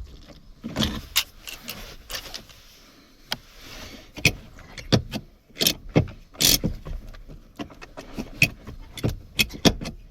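Irregular sharp clicks, snaps and rattles of the small metal and plastic parts of a BMW E46 handbrake lever's release-button mechanism being worked by hand, as its bent retaining tab is pushed back into place. The clicks come thicker and louder from about four seconds in.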